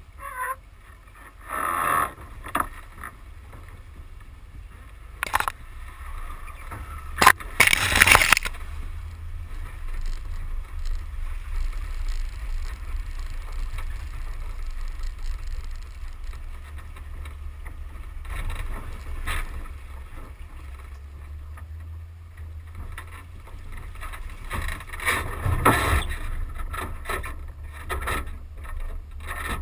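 Road and wind noise from a vehicle-mounted action camera on a rig driving a rough dirt track: a steady low rumble of wind buffeting and tyres. Several sharp knocks and clatters from bumps cut through it, the loudest about seven to eight seconds in and again around twenty-six seconds.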